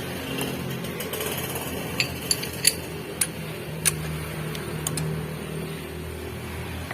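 Socket wrench tightening the timing-belt tensioner bolt on a Mitsubishi L300 diesel engine: a series of sharp, irregularly spaced metallic clicks and clinks, bunched in the middle.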